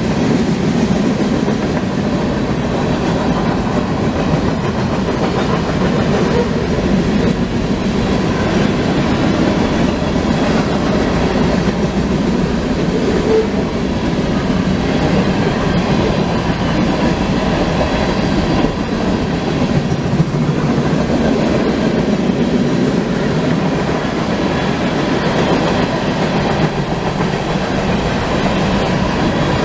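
Freight cars of a CSX mixed train (tank cars, boxcars, covered hoppers) rolling steadily past at a grade crossing: a loud, continuous rumble of steel wheels on rail with clickety-clack over the rail joints.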